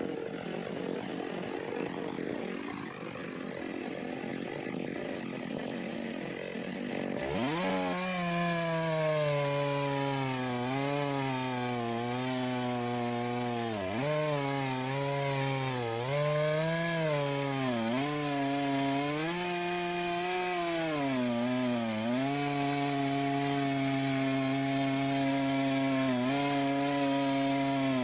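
Two-stroke chainsaw revving sharply up to full throttle about seven seconds in, after a stretch of steady noise. It then runs hard with its pitch dipping again and again as it bogs under load, ripping along a log in an Alaskan chainsaw mill, before holding steady near the end.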